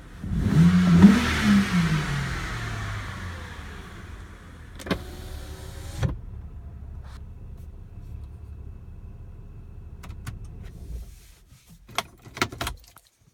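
BMW 328i's 3.0-litre straight-six given one blip of the throttle, its pitch rising and falling back to a steady idle, with two sharp clunks while it idles. The engine is switched off about eleven seconds in, followed by a few quick clicks and knocks.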